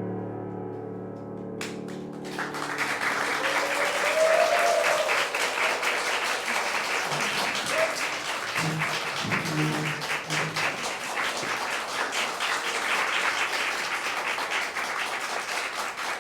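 Held final chord of a chamber ensemble dying away, then audience applause breaks out about two seconds in and continues steadily, with a few voices calling out.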